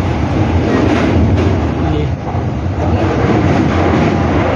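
Steady running rumble of a commuter train heard from inside the carriage, as another train passes close alongside.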